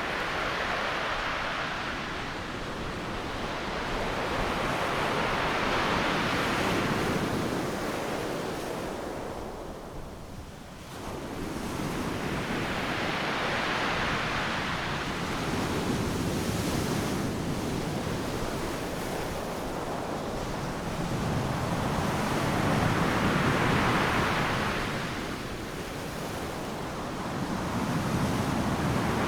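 Ocean surf breaking on a beach: a continuous wash of waves swelling and subsiding in slow surges every several seconds, with a brief lull about ten seconds in.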